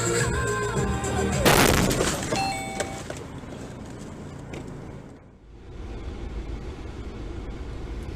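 Music, cut by a loud sudden impact about a second and a half in, typical of a car collision caught on a dashcam; after it comes a steady low rumble of car road and engine noise.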